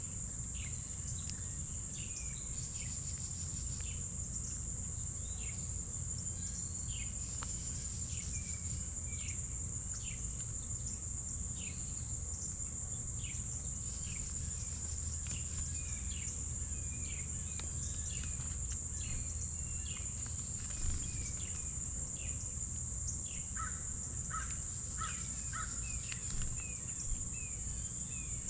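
Many short, sharp bird chirps and calls, repeated all through, over a steady high-pitched insect drone.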